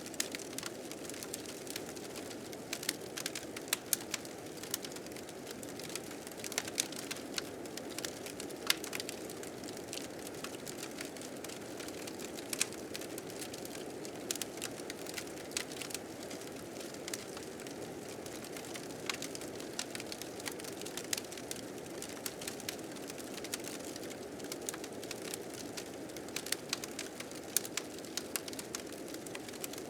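A fire crackling with frequent sharp, irregular pops over the steady rushing noise of a blizzard wind.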